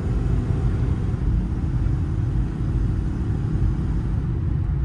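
Steady low rumble of the Ford F-550's 6.8-litre V10 engine and road noise, heard from inside the cab while the truck is driven.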